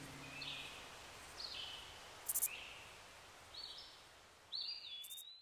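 Faint bird calls: short chirps about once a second and a longer whistled note near the end, over a soft hiss, as the last of the music dies away at the very start.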